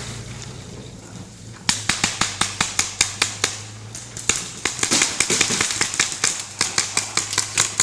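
Paintball markers firing rapid shots, about four or five a second, starting a little under two seconds in and going on with a short lull midway.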